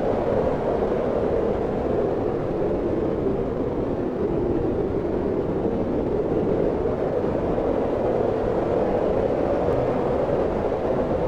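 Steady wind blowing, a rushing noise with a low hollow tone that swells and eases gently.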